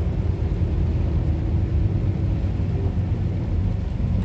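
Tractor-trailer's diesel engine and road noise rumbling steadily, heard inside the cab.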